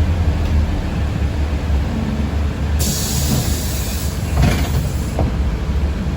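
Steady low rumble inside a moving city bus. About three seconds in, a hiss joins for roughly two seconds, with a brief knock in the middle of it.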